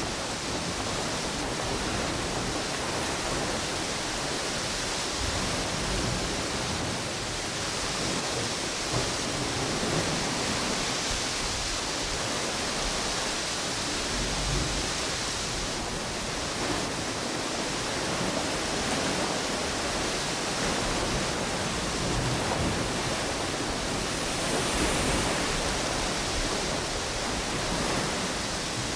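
Wind and ocean waves on a beach, blending into a constant hiss with slow, gentle swells in loudness.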